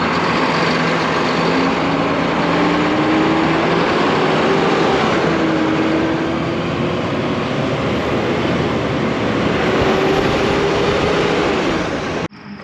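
Heavy vehicle engine running loudly, its pitch rising and falling as it works, with a dense mechanical din; it cuts off suddenly near the end.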